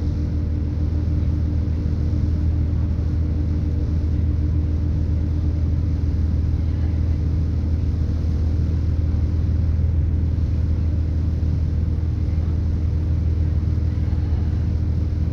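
Cabin sound of a British Rail Class 170 Turbostar diesel multiple unit on the move: a steady drone from its underfloor MTU turbo-diesel engine and Voith hydraulic transmission over the rumble of the running train.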